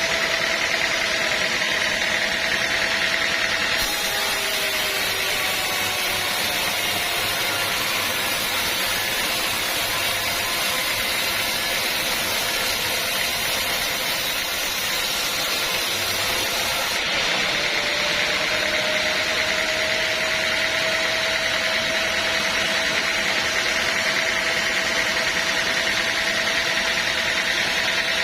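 Band sawmill running: a steady mechanical noise with a high whine, its tone changing abruptly about 4 seconds in and again around 17 seconds.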